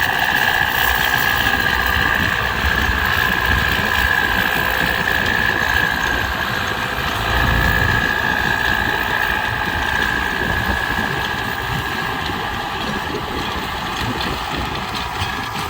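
Tractor engine running steadily, with a constant high whine over a low rumble that swells briefly about seven seconds in.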